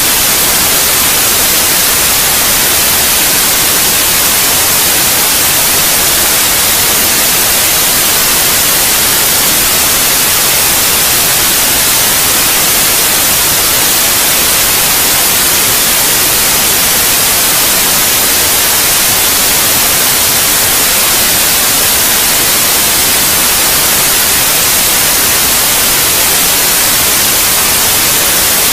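Steady white noise: an even, unbroken hiss, brightest in the treble, that never changes.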